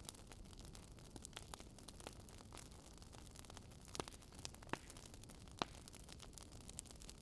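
Wood fire crackling faintly in a fireplace: irregular small pops and snaps over a low hiss, with a few louder pops in the second half.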